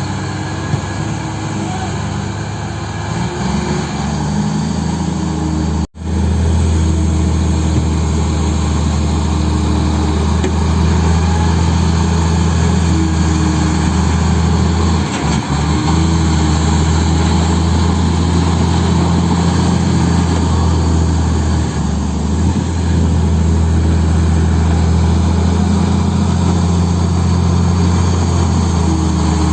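Heavy diesel engine running steadily with a low drone, cut off for an instant about six seconds in and then running on.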